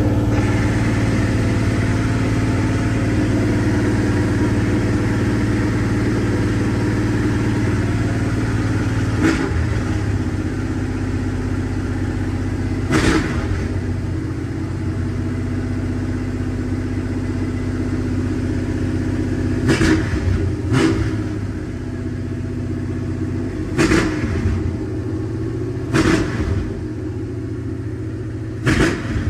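Ford 289 small-block V8 with a newly fitted Holley carburetor, running steadily at a high idle while it warms up. From about nine seconds in it gives several short revs, and the carburetor's idle is not yet adjusted.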